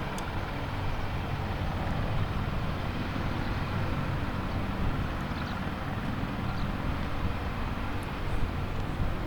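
AH-64D Apache attack helicopter running, its turbines and rotors making a steady low drone.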